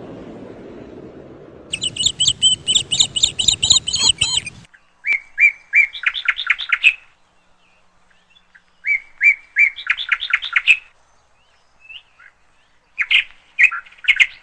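Bird song: a fast run of high chirps starting about two seconds in, then twice a phrase of a few level whistled notes breaking into a quick trill, and a few short notes near the end.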